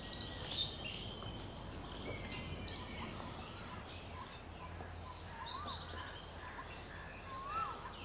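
Wild birds chirping and calling in the background, with a quick run of about six high notes about five seconds in and a couple of short whistled notes, over a steady low hum.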